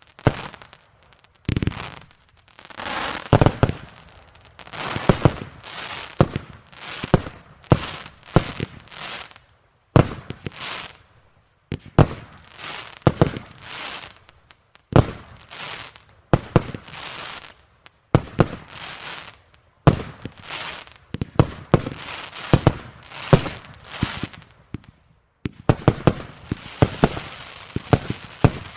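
Fireworks display: a rapid series of sharp bangs, about one a second, each followed by a crackling tail. Near the end the bangs run together into dense, continuous crackling.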